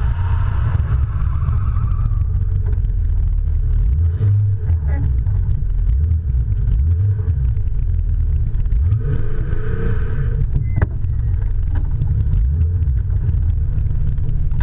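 A car running, with a steady heavy low rumble.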